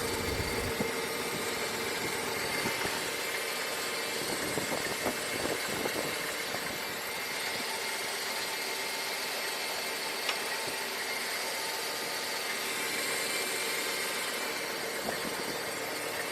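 Ford 300 cubic-inch inline-six in an old F-150 idling steadily, running after a jump-pack start.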